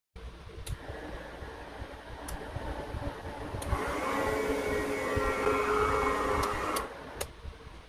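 Small DC motors of a homemade three-motor can boat running with a steady whine. The whine grows louder about four seconds in and drops away just before the end.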